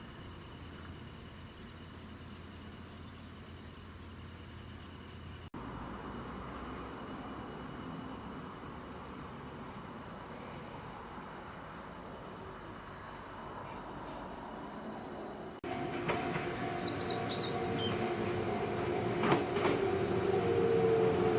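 Quiet outdoor ambience with insects buzzing. After a cut about 16 seconds in, an old JNR-type electric train approaches, growing steadily louder.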